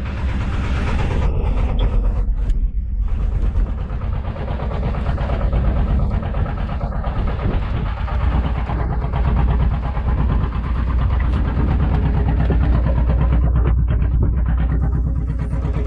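An engine running steadily aboard a squid-fishing boat: a loud, even, low drone.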